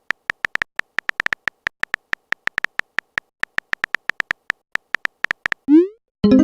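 Fast, irregular train of short electronic beeps, the typing sound effect of a chat-style texting story, several blips a second. Near the end comes a quick rising swoop, then a brief pitched chime.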